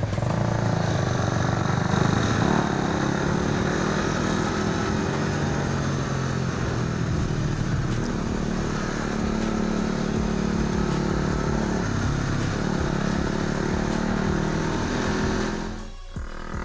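Motorcycle engine and exhaust running steadily while riding, with wind and road noise on the rider's microphone; near the end the sound drops away briefly.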